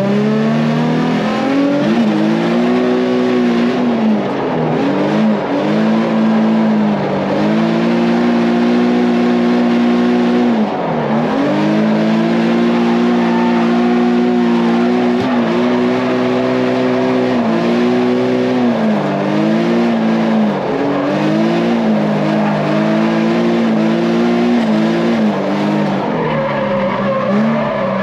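Drift car's engine held high in the revs, with repeated short dips and quick recoveries as the throttle is lifted and reapplied, and the tyres squealing through a drift.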